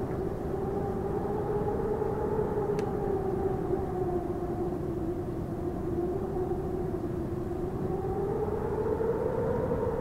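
Wind howling: a steady rushing noise with a hollow moaning tone that sinks slowly in pitch through the middle and rises again near the end.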